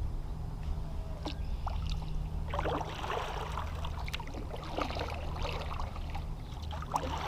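Kayak paddle strokes in the water, with irregular splashing and dripping, over a low steady hum.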